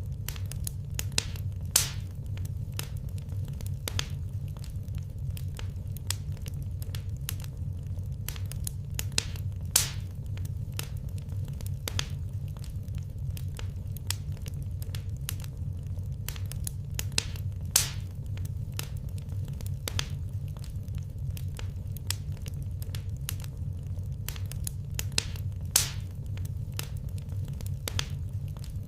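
Wood fire crackling in a fireplace: a steady low rumble with constant small crackles, and a louder pop about every eight seconds.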